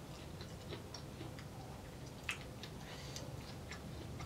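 Quiet, scattered wet mouth clicks and smacks of someone chewing seafood with her mouth full, with one sharper click about two seconds in.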